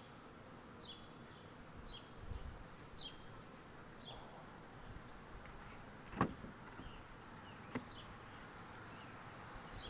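Honeybees buzzing around a hive, faint and steady, with two sharp knocks about six and eight seconds in.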